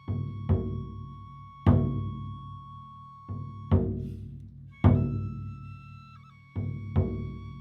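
Large taiko drums struck in single heavy beats about a second apart, some in quick pairs, each ringing out and fading before the next. A steady high held note sounds underneath.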